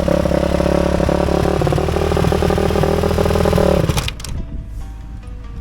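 Dirt bike engine running at fairly steady revs, edging up slightly, then cut off abruptly about four seconds in. Quiet background music follows.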